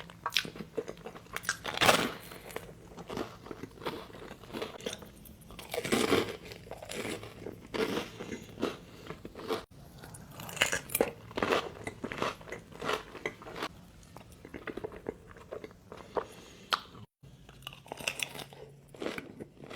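A person eating close to the microphone: irregular crunchy bites and chewing, with louder bites about 2 and 6 seconds in.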